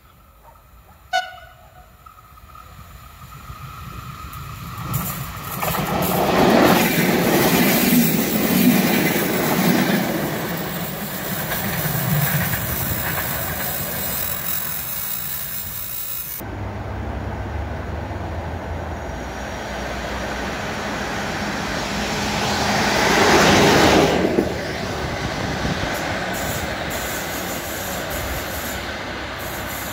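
A short train horn blast about a second in, then a train passing at close range with a loud rumble of wheels on the rails. The sound changes abruptly a little past halfway, and a second loud swell of passing train noise follows.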